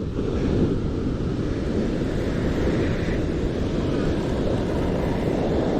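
Steady low rumble of wind buffeting the microphone over the wash of surf breaking on the beach.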